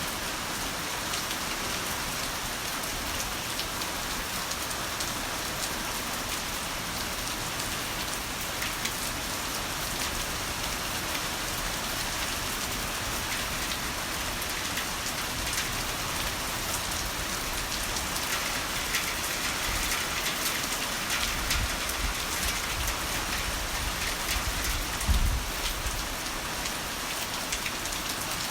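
Heavy rain falling in a steady hiss of dense drops. Near the end a low rumble of thunder swells and peaks briefly before fading.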